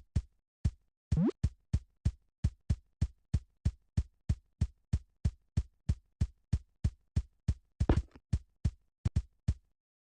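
Electronic drum-machine beat: a steady pulse of short, punchy hits, about three a second, with a rising sweep about a second in; the beat stops shortly before the end.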